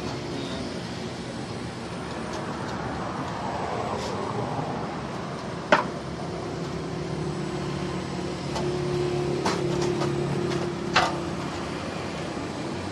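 A steady engine-like hum that grows a little stronger midway, with a few sharp clicks or knocks.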